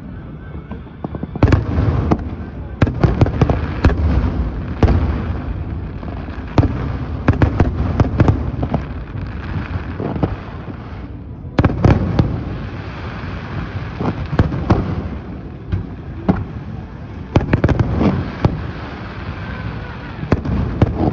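Aerial fireworks display: many sharp bangs and crackles over a continuous low rumble, with a brief lull a little past halfway before the bursts resume.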